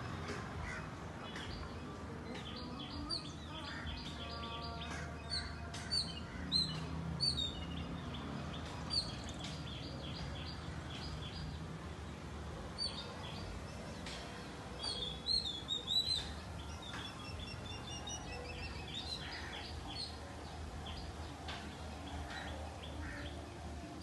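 Birds chirping: bursts of short, sharp calls, densest about five seconds in and again about fifteen seconds in, then a run of repeated notes falling in pitch, over a steady low hum.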